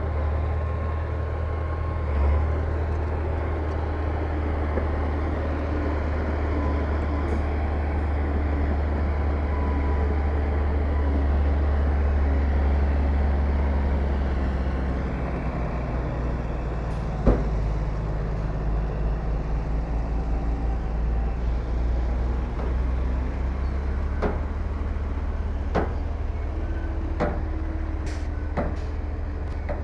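Heavy diesel earthmoving machinery running with a steady deep engine drone. There is one sharp knock about halfway through and several shorter metallic clanks near the end.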